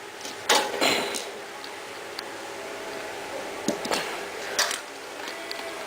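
A few sharp clicks and light clatters from a battery tester's probes and leads being handled and set on a motorcycle battery, over a steady faint hum.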